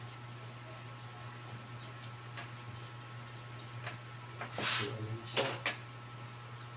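Steady low electrical hum, with a few short rustling, scraping handling noises about four and a half to six seconds in.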